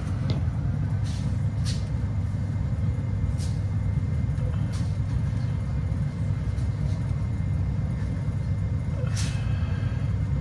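Indoor blower of a heat pump system pushing warm air through the ductwork during a heat-pump heating test: a steady low rush of airflow, with a few faint clicks.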